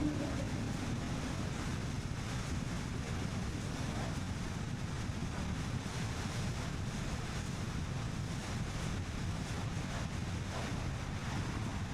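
Steady road and wind noise of a car driving along, with wind buffeting the microphone. A faint low hum fades out in the first second or so.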